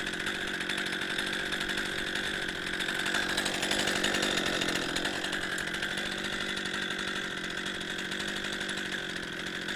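Chainsaw mounted in an Alaskan-style chainsaw mill running steadily at high speed, ripping lengthwise through a log to cut a plank, with a freshly sharpened chain.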